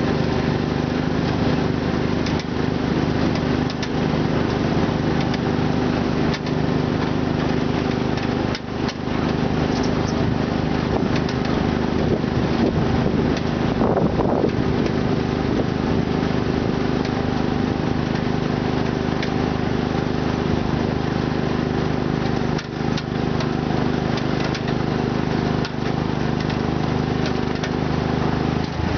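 Garden tractor engine running steadily at a fairly constant pitch, with a few brief dips in level.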